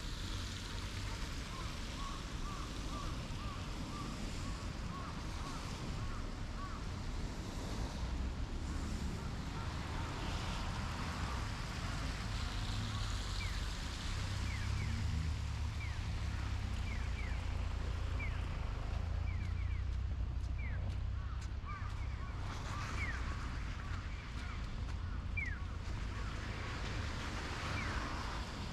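Wind buffeting the microphone in a snowstorm: a steady low rumble over an even hiss, with faint short squeaks coming through in the second half.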